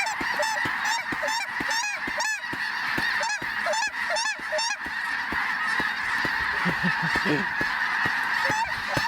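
A large flock of snow geese calling: many short, high-pitched honks overlapping over the continuous din of the rest of the flock.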